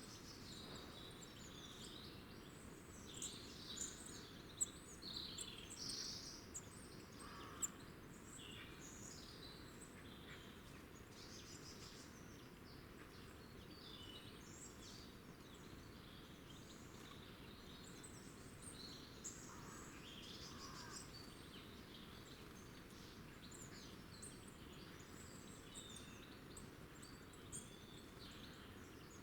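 Small songbirds chirping and twittering faintly, many short high calls overlapping, busiest in the first ten seconds, over a steady low hiss.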